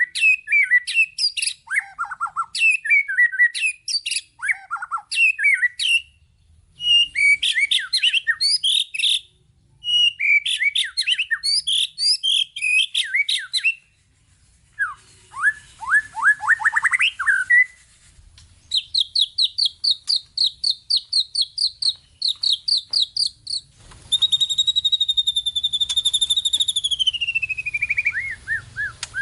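White-rumped shama (murai batu) singing a varied, packed song of many different phrases: quick chirps and whistles, a fast trill of rising notes about halfway through, then rapid repeated notes, and near the end one long whistle that holds and then slides downward.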